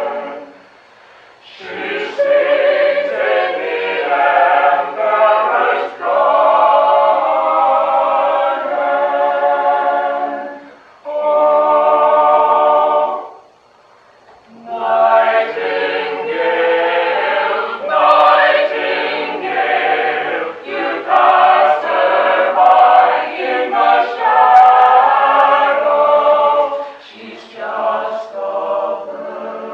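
A small mixed vocal ensemble of men and women sings in parts, breaking off briefly twice: about a second in and near the middle.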